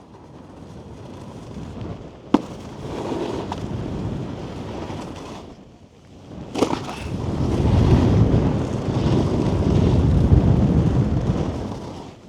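Snowboard sliding fast over packed snow with wind on the microphone, a sharp knock about two seconds in and a heavier thump about six and a half seconds in, then a loud low rumbling scrape of the board at speed that fades near the end. The thump is typical of casing a jump, landing short on the knuckle.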